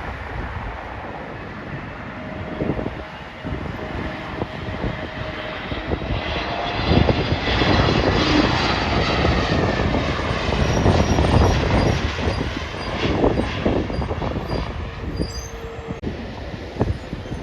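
Jet airliner on landing approach passing over: its engine noise swells about six seconds in, with a high whine, is loudest in the middle and then fades. Wind buffets the microphone throughout.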